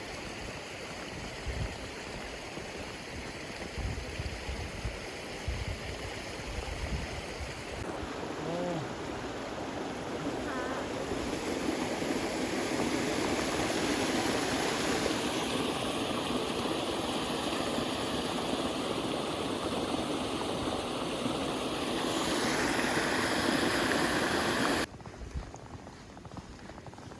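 Steady rushing of flowing water, like a stream, that shifts abruptly in loudness and tone several times and drops away suddenly near the end. There are some low thumps in the first few seconds.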